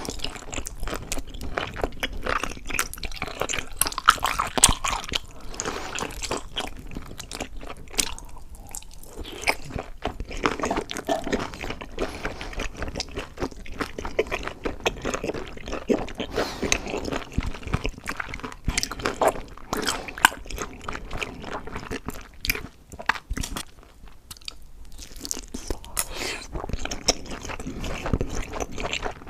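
Close-up eating sounds: a person biting into and chewing crunchy food, a dense run of irregular crunches and crackles, pausing briefly twice.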